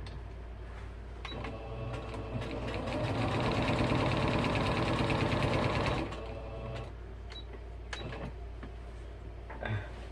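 Sewing machine stitching binding onto a quilt: it starts about a second in, speeds up and runs fast for a few seconds, then slows and stops about two-thirds of the way through, followed by a few light clicks.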